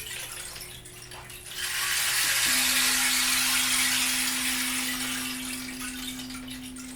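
Sound-healing instruments: a water-like wash of sound swells in about 1.5 s in and slowly fades, over a steady drone tone that drops to a lower pitch about 2.5 s in.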